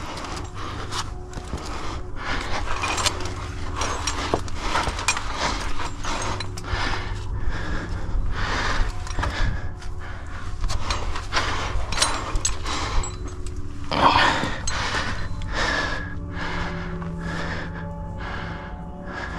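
A climber breathing hard, panting in quick gasps as he strains up a rock chimney, over steady background music.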